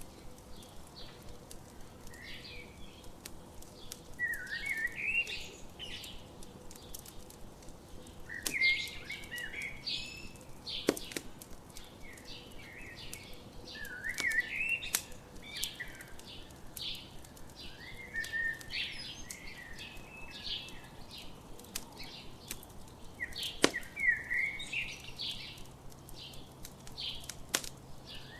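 Songbirds singing short chirping phrases that repeat every few seconds, with a few sharp pops from a crackling campfire standing out as the loudest sounds.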